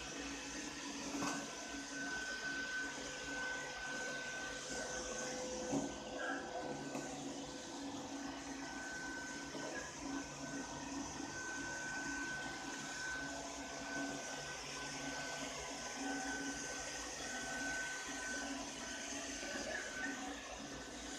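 Ropo Glass robot vacuum cleaner running steadily: an even whir from its suction motor and brushes with a thin high whine over it, broken by a couple of light knocks.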